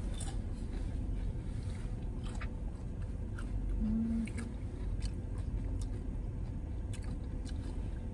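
A person chewing crunchy fried fast food with the mouth closed, small crunching clicks scattered through, over the steady low rumble of a car cabin. A brief low hum sounds about four seconds in.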